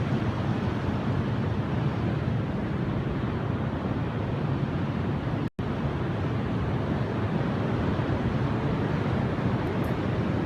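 Steady blizzard wind rushing and buffeting the microphone, a dense low rumbling noise that cuts out for an instant about five and a half seconds in.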